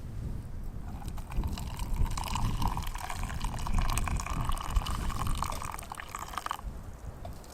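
Hot water being poured into a mug for tea, a steady pouring sound that stops abruptly near the end.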